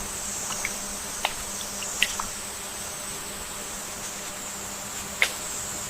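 Steady high insect drone, with a few short sharp clicks over it; the clearest come about two seconds and about five seconds in.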